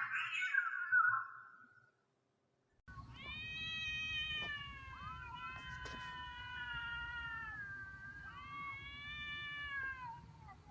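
Domestic cat meowing: short rough cries in the first two seconds, then after a brief gap three long drawn-out yowls that slide up and down in pitch, over a low background hum.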